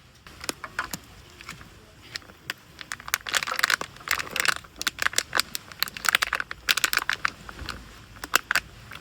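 Crinkling and rustling full of sharp irregular clicks, like packaging or a bag being handled, starting suddenly about a quarter second in.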